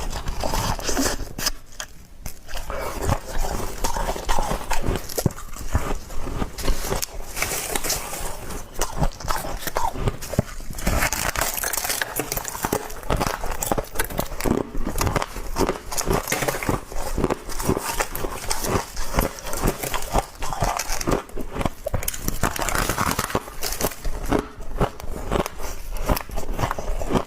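A person biting and chewing soft, thin frost: a dense, continuous run of crisp crunches and crackles, with a brief lull about two seconds in.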